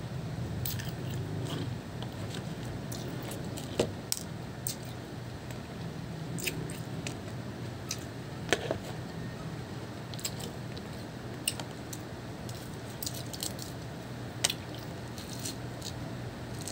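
A person chewing and biting pomelo pulp, with irregular wet smacks and small sharp clicks over a steady low background hum.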